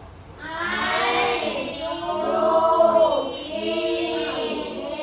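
A group of children singing together in unison, with notes held and sliding.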